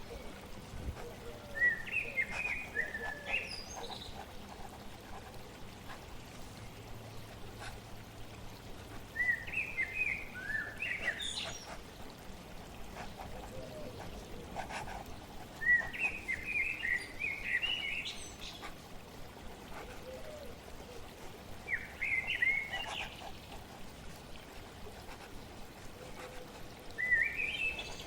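A songbird singing short phrases of quick chirpy notes, five times about six seconds apart, over a steady trickle of flowing water.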